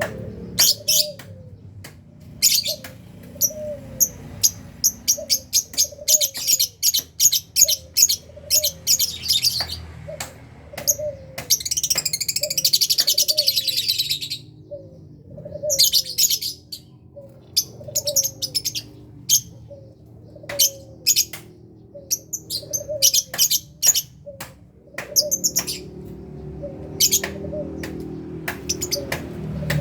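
Lovebirds in a colony cage giving short, sharp, high chirps in quick volleys, with a stretch of continuous shrill chattering a little before the middle. A lower gliding note repeats steadily about once a second underneath.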